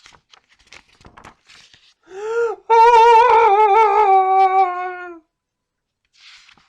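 A child's voice making a long, wavering, wordless cry of about two and a half seconds, sliding slightly down in pitch, after a short 'oh'-like sound. It is a dramatic reaction acted out in character. Faint light clicks come before it.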